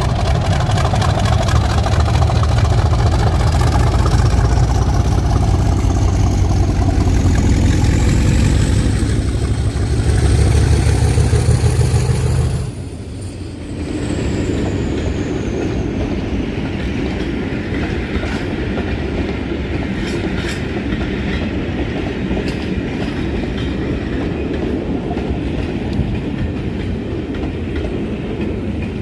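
British Rail Class 50 diesel locomotive 50015 accelerating away with its English Electric V16 engine working hard and the high 'Hoover' whine climbing. About 13 seconds in the engine sound drops suddenly and the whine falls in pitch as the locomotive goes past. The coaches follow with a steady rumble and wheels clicking over rail joints.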